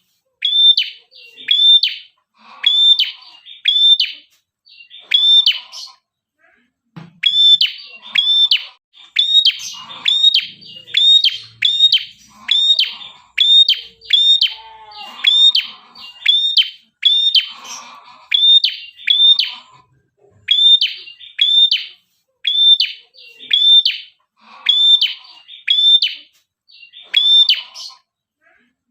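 Prenjak kepala merah singing in full, rapid song: loud, sharp high notes repeated about one or two a second, with a brief pause about six seconds in. Fainter lower chirping sits underneath.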